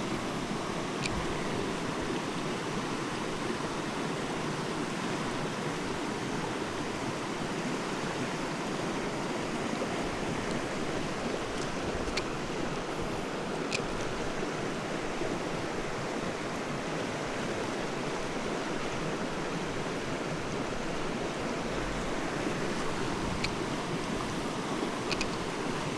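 Mountain stream rushing steadily over rocks, with a few faint clicks here and there.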